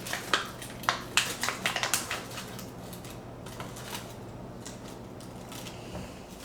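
A plastic jerky bag being handled, crinkling and clicking densely for the first two seconds or so, then only a few faint rustles.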